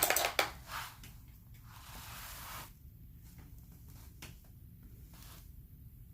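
Handling noises from painting supplies on a work table: a few sharp clicks and scrapes at the start, a rustling scrape lasting about a second around two seconds in, then a few light taps.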